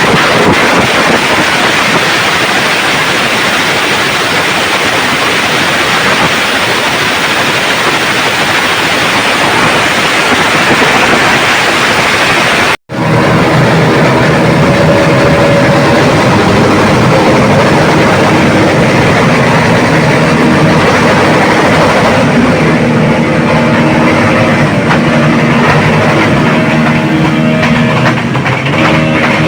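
Loud, even noise of motorcycle engines running. After a sudden cut about a third of the way in, music with held notes plays over the engine noise.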